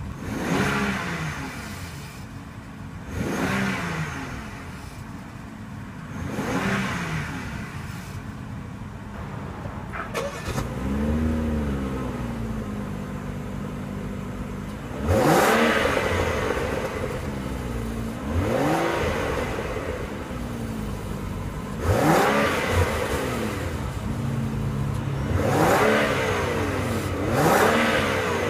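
A 2014 BMW X6 xDrive35i's 3-litre twin-turbo inline-six idling and being blipped about nine times, each rev rising quickly and then falling back to idle.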